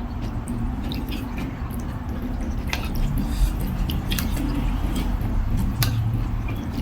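A person chewing a mouthful of beef noodle soup, with short wet mouth clicks and smacks over a steady low rumble.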